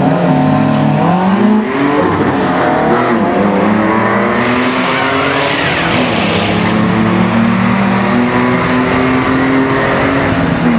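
1966 Chevy Nova's 461-cubic-inch big-block V8 revving up in the first second or two, then running steadily at raised revs as the drag car rolls forward, with a brief hiss in the middle.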